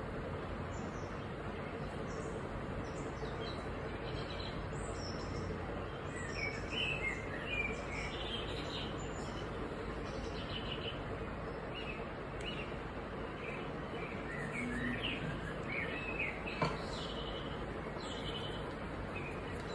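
Birds chirping intermittently in the background over a steady hiss of room noise, with one sharp click late on.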